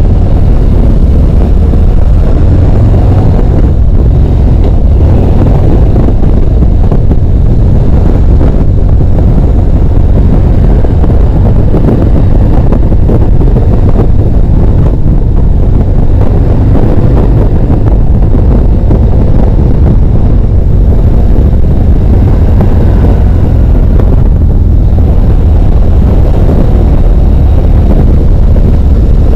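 Harley-Davidson motorcycle under way, its engine running steadily beneath loud wind buffeting on the microphone.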